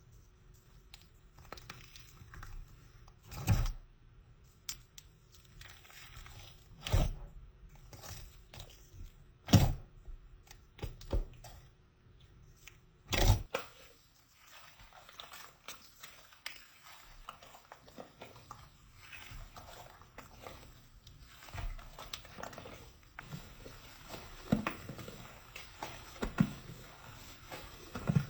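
Slime being squeezed and poked by hand, making irregular sticky pops and clicks: four louder pops spaced a few seconds apart in the first half, then a run of smaller, quicker crackles.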